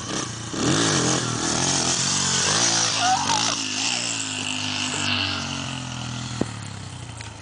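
Dirt bike engine revving up and down several times, then running at a steadier pitch and growing fainter near the end.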